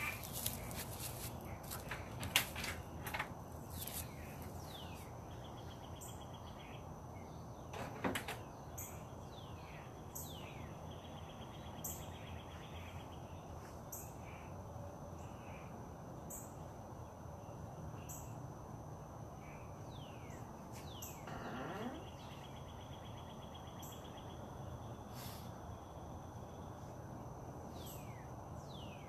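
Songbirds calling in the early morning: clear falling whistles repeated every couple of seconds over a steady thin high insect-like tone. A few sharp clicks and knocks come in the first few seconds.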